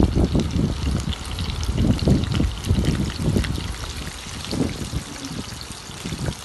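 Batter-coated onion rings shallow-frying in hot oil: a sizzle dotted with many small crackling pops, with irregular low thumps.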